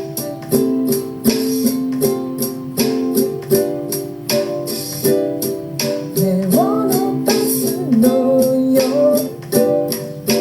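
Ukulele strummed in a steady rhythm of chords. About six seconds in, a voice sings a short wavering phrase over it for a few seconds.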